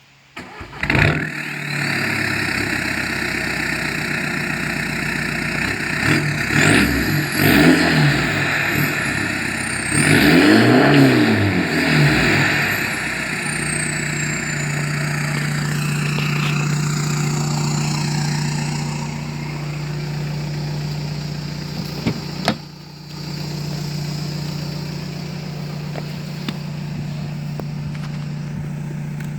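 A 2010 Volkswagen Jetta TDI's four-cylinder turbodiesel with a 3-inch straight-pipe exhaust starts up about a second in and settles to idle. It is revved a few times, about six and ten seconds in, with the pitch rising and falling, then idles steadily.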